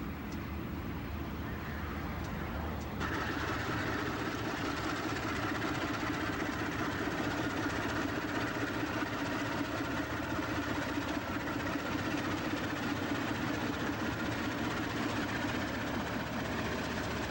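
Freight train running steadily with a low rumble; about three seconds in, a higher steady hum joins and the sound grows a little louder.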